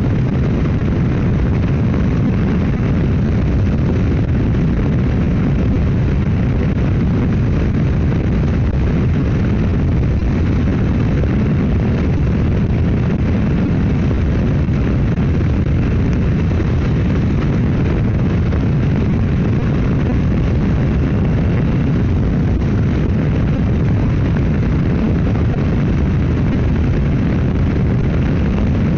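Steady, loud rush of wind buffeting the microphone mixed with motorcycle engine and road noise while riding at highway speed.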